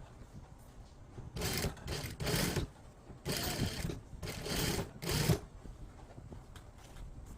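A run of about six short rustling scrapes in quick succession, each under a second long, in the first two-thirds.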